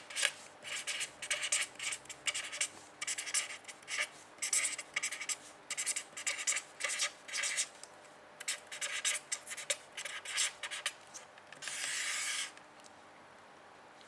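Handwriting: a pen scratching across the writing surface in quick groups of short strokes, then one longer continuous stroke about twelve seconds in, after which the writing stops.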